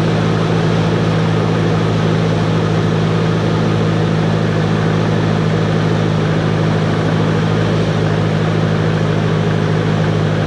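Cessna 140's air-cooled flat-four engine and propeller running steadily: a constant drone with a strong low hum.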